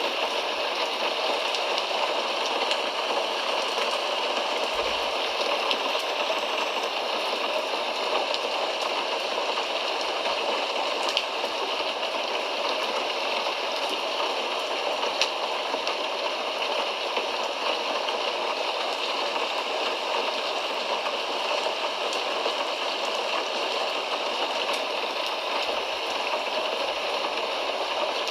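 Steady rain: an even hiss of falling drops, with a few sharper drop ticks.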